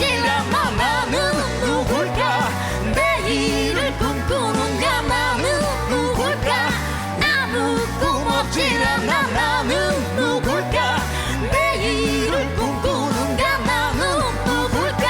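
Live pop-rock band with singing over it, the sung lines wavering and bending in pitch, at a steady full level.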